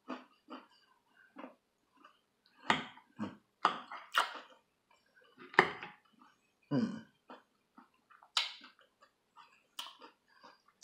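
A person chewing a mouthful of salad with breaded chicken: irregular crunches at uneven intervals, a handful of them louder between about three and ten seconds in.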